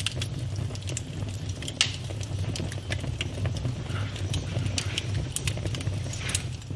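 Campfire burning: a steady low rumble of flames with irregular crackles and pops of burning wood, a few sharper snaps standing out.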